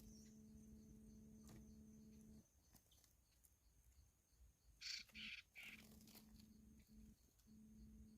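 A bird giving three short, harsh calls in quick succession about five seconds in, over otherwise faint background.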